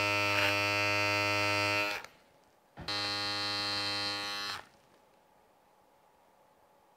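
Electric beard trimmer buzzing against the mustache as it trims the lip line, in two runs of about two seconds each with a short break between. The second run is a little quieter.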